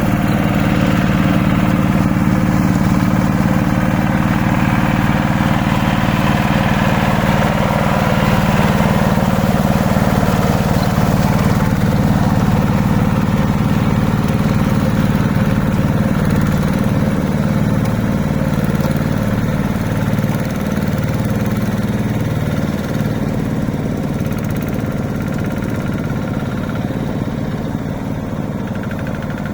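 A hand tractor's engine running steadily. Its pitch wavers for a few seconds past the middle, and it grows slightly quieter toward the end.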